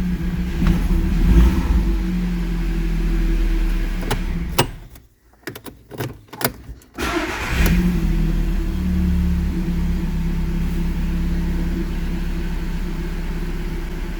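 Audi car engine running, with a short rise about a second and a half in. It cuts out about four and a half seconds in, a few clicks follow, and it starts again about seven seconds in and settles to a steady idle. The car now cranks and starts after its ECU checksum fault was corrected.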